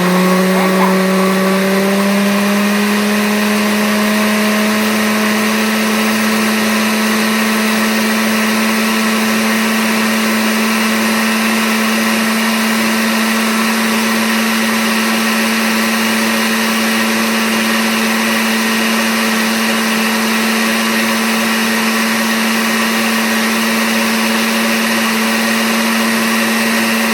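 Electric blender motor running steadily as it blends a cheese sauce of melted cheeses; its pitch rises a little over the first few seconds as it gets up to speed, then holds steady until it is switched off at the very end.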